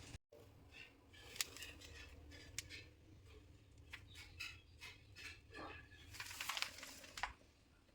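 Faint scattered clicks and light taps, irregular, thickening into a quick run of them about six seconds in.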